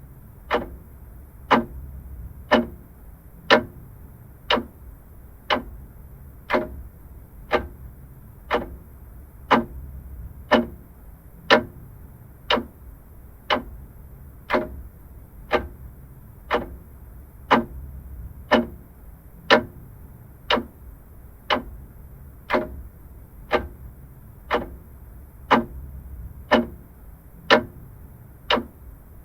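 Vintage mechanical clock ticking steadily, about one sharp tick a second.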